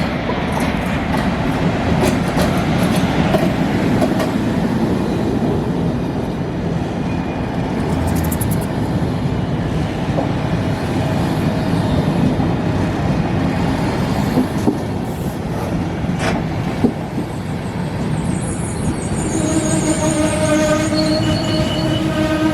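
Passenger train moving through a station, with a steady rumble of wheels on rails and a few sharp clicks. Near the end, a slightly rising whine at several pitches comes in over the rumble.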